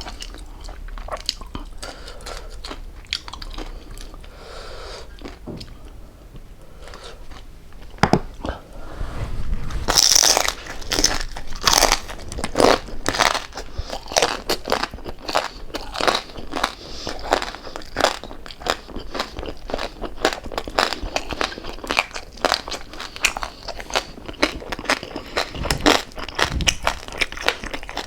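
Close-miked chewing and crunching of crispy fried pork jowl, with crackling bites of the crisp skin. The chewing is softer for the first several seconds, then grows louder with sharp crunches from about ten seconds in.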